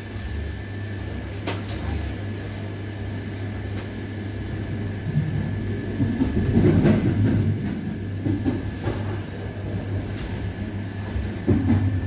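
Rumble of a passenger train's couchette car rolling along the track, heard from inside, with a few sharp clicks of the wheels over rail joints. It swells louder from about five to eight seconds in as another train passes close alongside.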